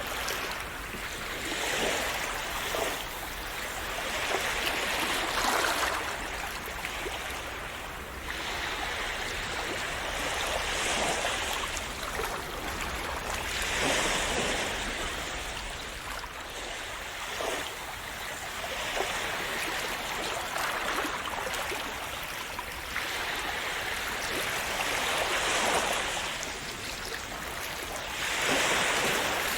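Calm sea waves splashing and washing in, the sound of water swelling and falling away every few seconds.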